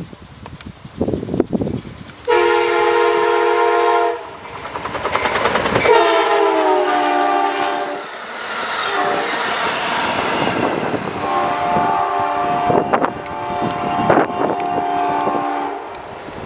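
Amtrak Cascades passenger train's locomotive horn sounding three long blasts, the second falling slightly in pitch as the train passes, over the rushing noise of the train going by, with wheel clicks over the rail joints near the end.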